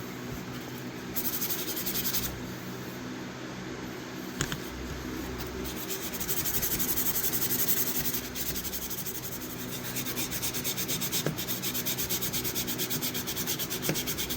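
Sandpaper of 500–600 grit rubbed back and forth on a rusty, oiled steel pocket-knife blade, in spells of quick, even strokes that take off the heavy rust.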